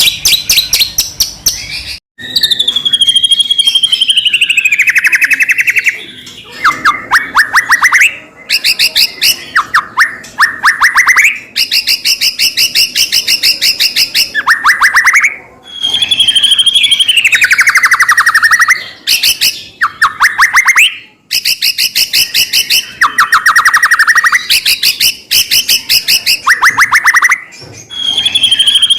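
White-rumped shama (murai batu) singing loudly and continuously. Rapid runs of repeated notes alternate with slurred whistles that fall in pitch, and short breaks come between phrases.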